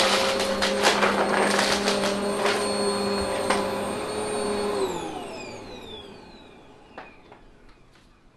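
Vacuum cleaner motor running steadily with a few clicks, then switched off about five seconds in, its whine falling in pitch and fading as the motor spins down. A single click follows near the end.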